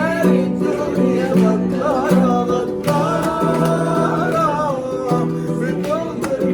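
Acoustic guitar strumming an accompaniment while a voice sings long, wavering held notes without clear words. The vocal line bends up and down over the steady low guitar chords.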